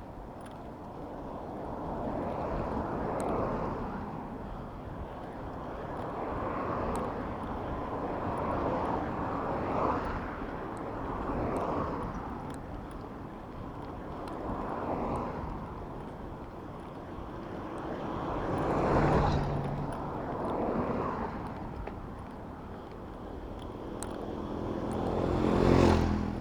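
Motor vehicles passing close by one after another in city traffic, each swelling and fading, over a rush of wind on the microphone. The two loudest passes, about two thirds of the way in and near the end, carry a low engine drone.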